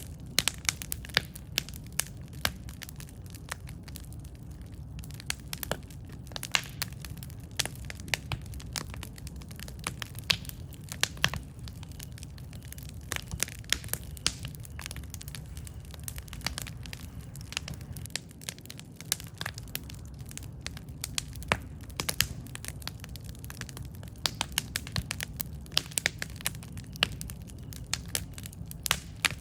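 Campfire crackling: frequent sharp, irregular pops and snaps of burning wood over a steady low rumble of the flames.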